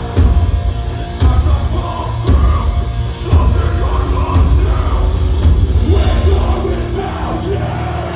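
Metalcore band playing live and loud: heavy distorted guitars and drums, with a cymbal crash about once a second and a voice yelling over the music.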